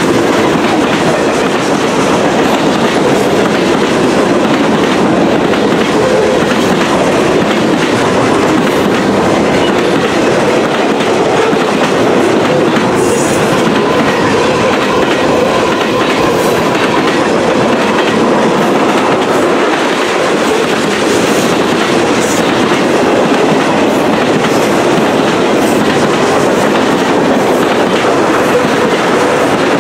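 Freight cars of a CSX train (boxcars, open hoppers and tank cars) rolling past: a loud, steady noise of steel wheels running on the rails.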